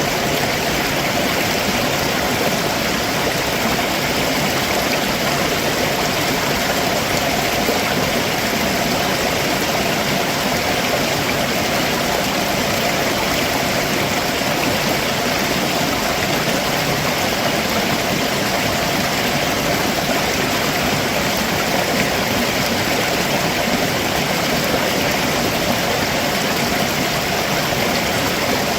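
Stream water rushing steadily over rocks below a waterfall, a constant even wash of noise.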